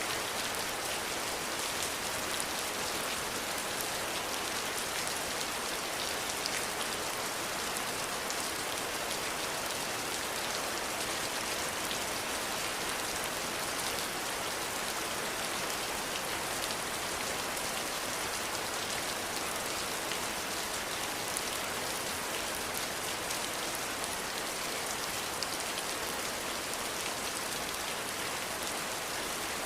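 Steady rain falling, an even hiss with many fine, close drop patters on a surface and no thunder.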